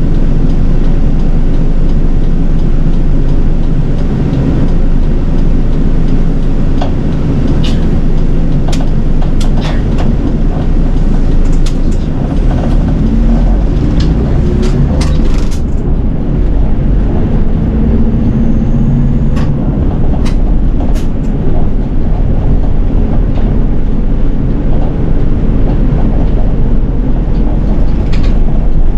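Nishitetsu city bus driving, heard inside the cabin: a steady engine and road rumble with scattered sharp clicks and rattles, most of them in the first half.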